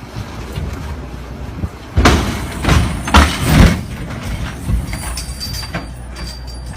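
A vehicle crash: a sudden loud impact about two seconds in, followed by three more loud crashing bangs within about a second and a half, over a steady low vehicle rumble.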